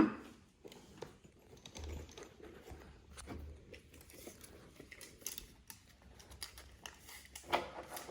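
Faint handling noises: scattered small clicks, scrapes and rustles, with a louder clatter near the end.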